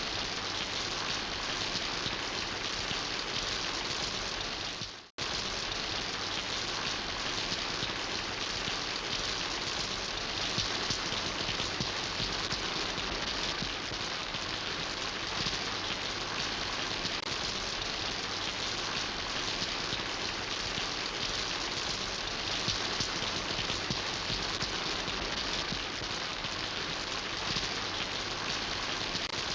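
Steady rain falling and pattering on surfaces, an even hiss throughout. It briefly fades to near silence and comes straight back about five seconds in.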